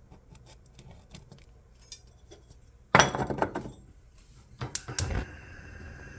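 Metal burner parts of a gas range cooktop clinking and clattering as they are handled: light ticks at first, a loud clank with ringing about three seconds in, then a few quicker clinks near five seconds.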